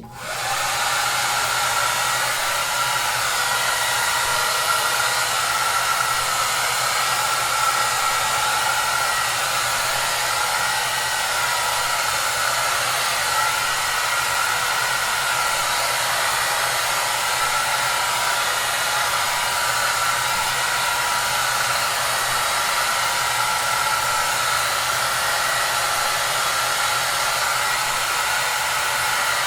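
Hair dryer running steadily: a constant rush of blown air with a motor whine. It comes in from silence right at the start and then holds level.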